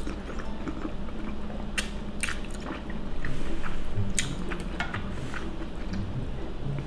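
A person chewing a mouthful of tomato linguine, with a few sharp clicks.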